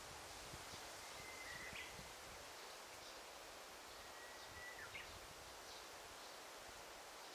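Quiet forest ambience: a soft steady hiss with a bird giving two long, level whistled notes, each ending in a quick flick, about three seconds apart, over faint high chirps.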